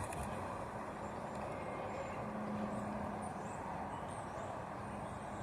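Steady background noise with a faint low hum, and faint mouth sounds of a person chewing a burger.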